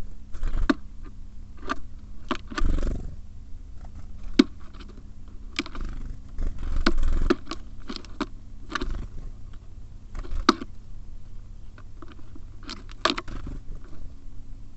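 Small birds at a feeder: a steady scatter of irregular sharp taps and scrapes as they peck at seed and hop about, with a few low rumbling flurries among them.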